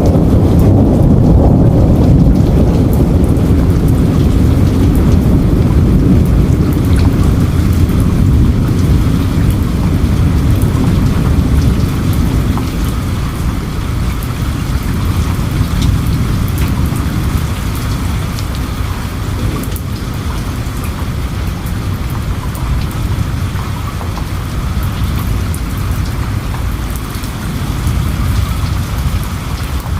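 Heavy rain falling steadily, with a long low rumble of thunder that dies away over the first half, leaving the rain and the ticks of individual drops.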